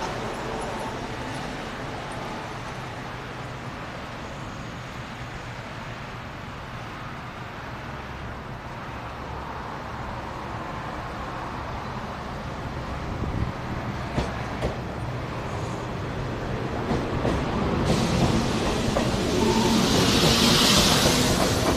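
JR 115-series electric train pulling out and accelerating past. Its running rumble grows louder as it approaches, and near the end a motor hum rises in pitch as it goes by at close range.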